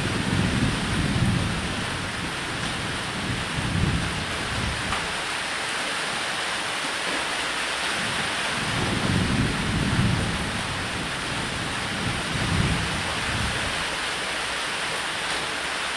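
Steady heavy rain falling on a roof, with low rolling thunder rumbling up and fading away about four times.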